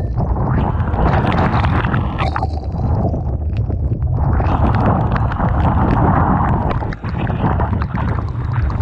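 Typhoon wind buffeting the microphone as a heavy, steady low rumble, over rough sea surging and easing, with many sharp ticks of spray striking the camera.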